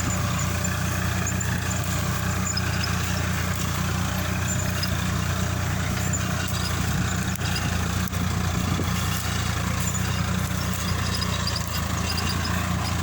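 Swaraj 963 tractor's diesel engine running steadily at an even pitch.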